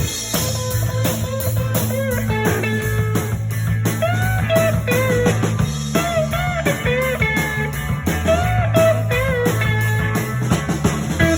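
Blues-rock band playing an instrumental passage: a lead guitar line with bent notes over bass and drums, with no singing.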